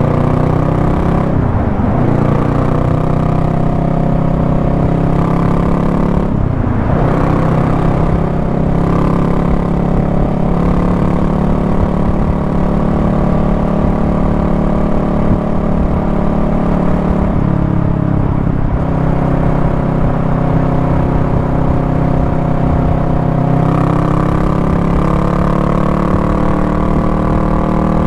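Honda Rebel 500's parallel-twin engine running steadily on the move, its pitch dipping and recovering a few times and rising near the end.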